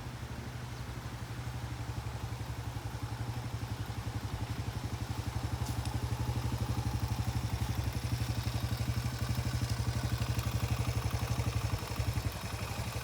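A Suzuki DR-Z125 dirt bike's single-cylinder four-stroke engine running under way in second gear. The engine gets louder over the first few seconds, holds steady, then eases off near the end.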